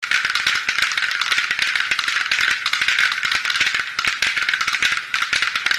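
A continuous, dense rattling clatter of very fast clicks, high in pitch, with no break or change in pace.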